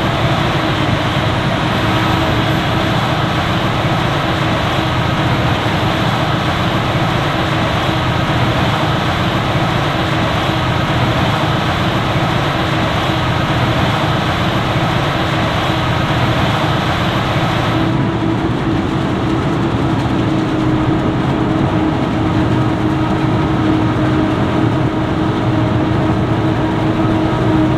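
Heavy diesel farm machinery running steadily at work in a maize harvest: a forage harvester and tractors with silage trailers, a continuous engine drone with a steady hum. About two-thirds of the way in the hiss above it drops away abruptly while the engines carry on.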